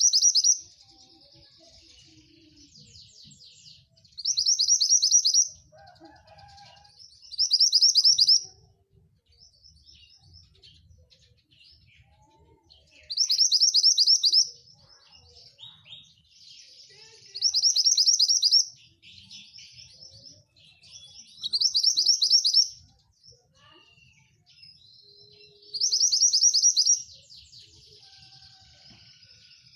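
Javan bush lark (branjangan) singing: a loud, rapid high trill of about a second, repeated seven times at roughly four-second intervals, with softer varied twittering and chirps between the trills.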